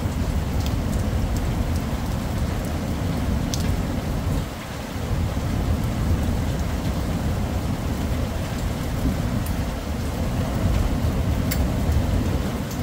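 Heavy rain falling steadily over a continuous low rumble, with a few scattered sharp ticks of drops striking a surface.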